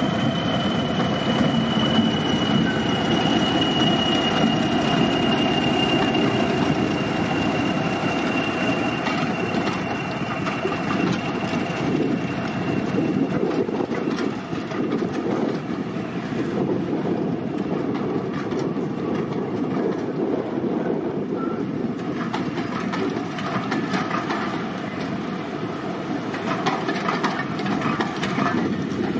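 A train running on the rails with a steady wheel rumble. A high squeal slowly drops in pitch and fades out over the first dozen seconds, and clusters of wheel clicks come later.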